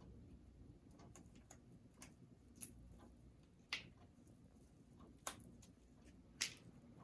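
African grey parrot biting and tearing at a chew toy with its beak: quiet, irregular sharp clicks and snaps, several of them louder.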